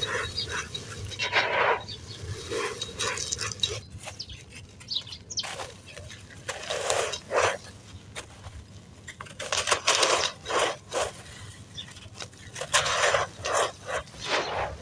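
Dry, crispy blue-dyed sand crumbling and crunching in a clay pot, in irregular gritty crunches, each lasting under a second.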